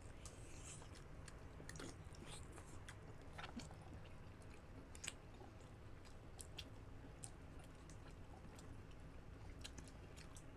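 Faint, close-miked chewing and wet mouth sounds of people eating soup-soaked chicken and soft coconut meat, with scattered short clicks and smacks.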